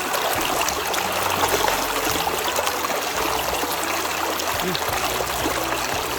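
Water running steadily in a continuous trickling flow.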